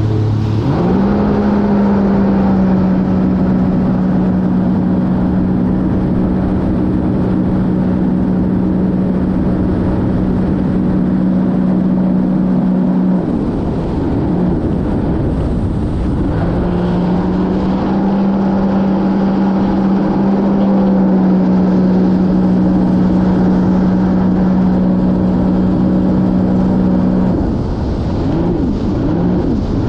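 Sea-Doo GTR230 jet ski's supercharged three-cylinder engine running at speed, held at a steady pitch over the rush of wind and water. It eases off about 13 seconds in, comes back up a few seconds later, and eases off again near the end.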